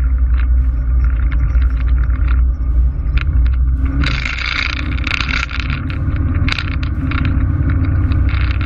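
Small airplane in flight heard from inside the cockpit: a steady, loud low rumble of engine and airflow, with rattles and crackles. A rush of hiss swells about four seconds in.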